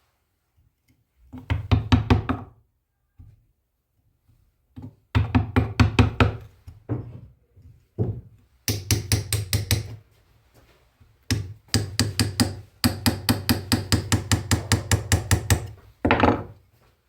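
Rapid knocking in several bursts of one to three seconds, about six sharp strikes a second, with short pauses between the bursts.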